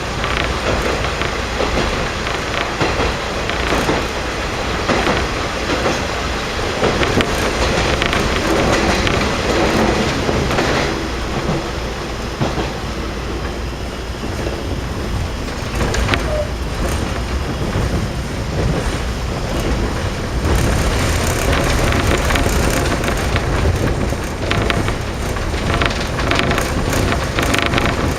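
JNR KiHa 52 diesel railcar heard from inside the car while running: a steady diesel drone and rumble. Wheels click over rail joints now and then, more often near the end.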